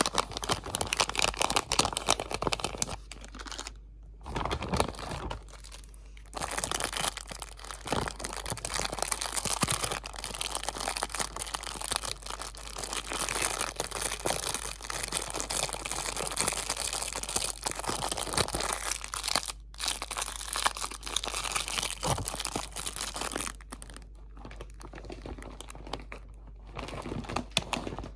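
Close-up crinkling of crinkly material handled and squeezed near the microphone: a dense, continuous crackle of tiny snaps, with a few brief pauses.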